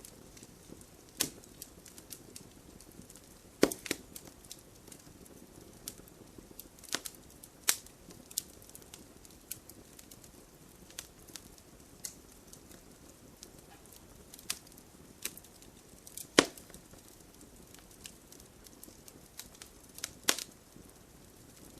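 Wood campfire crackling: firewood popping in scattered, irregular sharp cracks, the loudest about four seconds in and again about sixteen seconds in, over a soft steady hiss of the flames.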